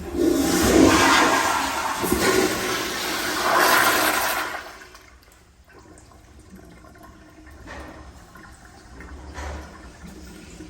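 American Standard EverClean toilet flushing: a loud rush of water that starts suddenly and dies away after about four and a half seconds.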